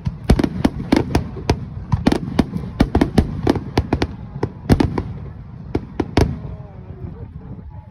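Aerial fireworks shells bursting in a rapid series of sharp bangs, several a second, over a low echoing rumble. The bangs thin out after about six seconds.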